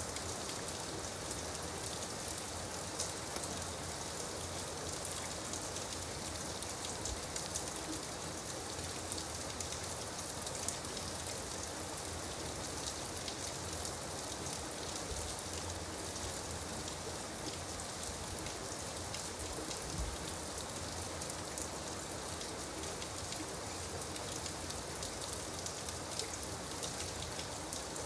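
Steady gentle rain: an even hiss of falling rain with many fine, scattered drop ticks and a few louder drop hits.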